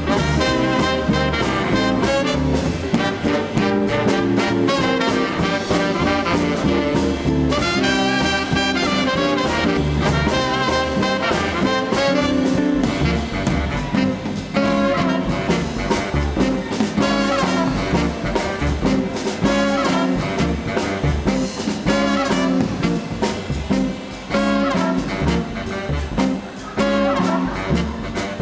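Live swing band with a horn section (tenor saxophone, trumpet, trombone) over guitar, upright-style bass and drums, playing an up-tempo instrumental.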